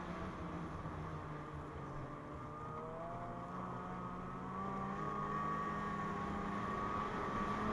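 2017 Ski-Doo MXZ 600 Carb Sport's two-stroke twin engine running under way on the trail; the engine speed climbs from about two and a half seconds in, and it runs a little louder and steadier from about five seconds on.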